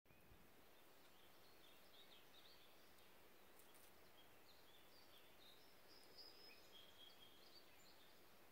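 Faint birdsong: many short high chirps and a few brief held whistles from several birds, over a soft steady hiss.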